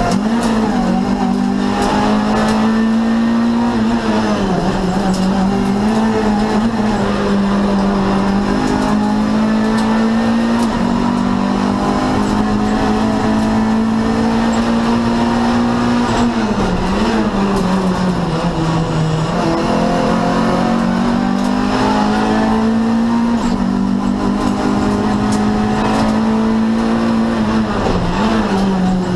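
Renault Clio 2 Cup race car's four-cylinder engine running hard at high revs, heard inside the stripped cabin. The note holds high and dips briefly at each gear change, several times, and falls further and climbs again near the middle as the car slows for a corner.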